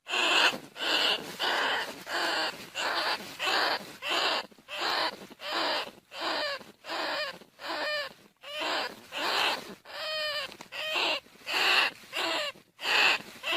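Bandicoot rat squealing over and over in short, harsh calls that bend in pitch, about one and a half calls a second: a rat call used as a lure to bring the animals in.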